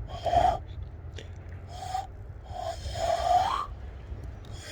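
Hand-cupped whistle calls blown through the gap between pressed thumbs: about four short, breathy hoots, the last one longer and sliding upward at its end.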